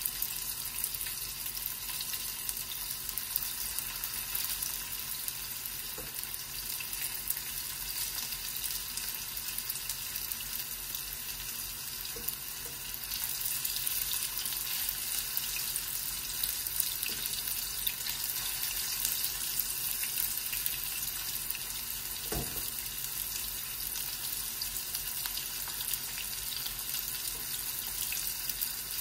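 Flour-coated chicken breast cubes frying in hot olive oil in a non-stick pan: a steady high sizzle with fine crackling as more pieces are dropped into the oil, with a few faint knocks.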